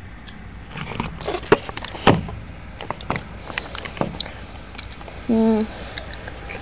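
A run of irregular sharp clicks and knocks lasting about four seconds, followed by a short voice sound about five seconds in.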